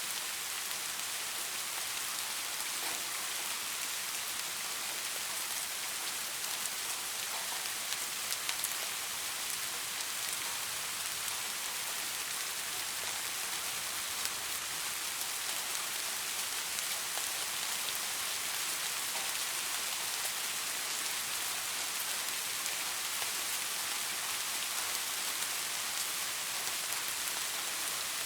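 Steady rain falling on leaves: a dense, even hiss of drops with single drops ticking out now and then.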